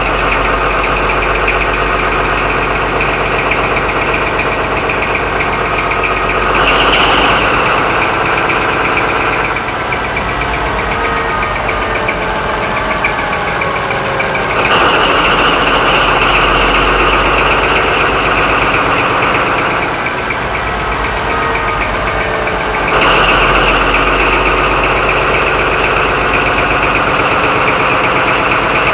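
Paxman VP185 V12 diesel engine of a Class 43 HST power car running steadily after a cold start, its sound stepping louder and quieter several times.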